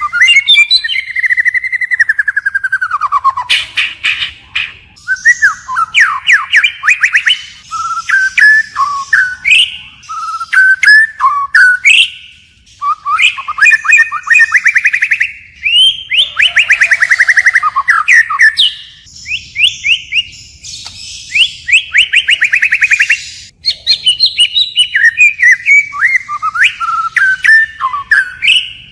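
White-rumped shama singing, changing its phrase again and again: clear whistles, including a long falling whistle near the start, mixed with fast rattling trills and quick chattering notes, with brief pauses between bouts.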